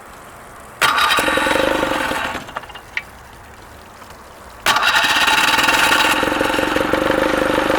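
Mercury 20 hp outboard motor being started. It fires within the first second, runs briefly and dies away, then catches again near the middle and keeps running steadily.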